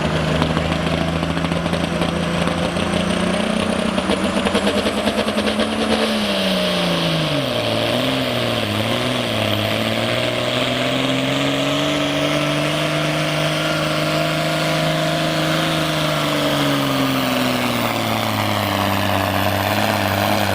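Oliver hot farm pulling tractor's engine running hard under load. About six seconds in its pitch sags and wavers as the engine is pulled down by the sled. It then climbs back, holds steady, and eases off slightly near the end.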